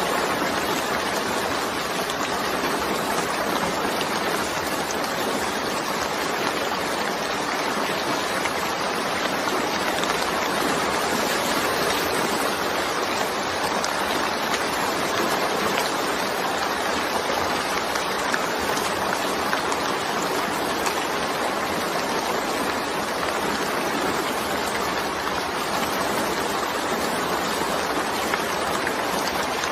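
Steady rain: an even, unbroken hiss of falling water with no thunder in it.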